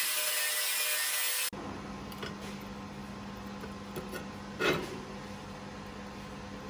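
A power tool polishing a laser-welded metal seam, a steady hiss that cuts off abruptly about a second and a half in. After it, a low steady hum with a few clicks and one louder knock near the middle.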